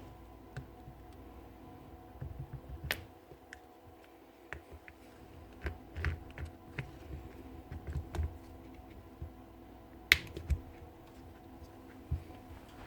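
Scattered light clicks and small knocks of drill parts and tools being handled during disassembly, with the sharpest click about ten seconds in, over a faint steady hum.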